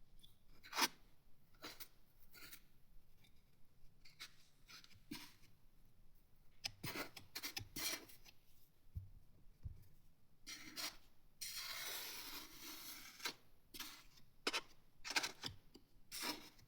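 Palette knife scraping and tapping as acrylic putty is pressed into the gaps between small cast bricks: scattered short scrapes and clicks, with a longer rasping scrape about twelve seconds in.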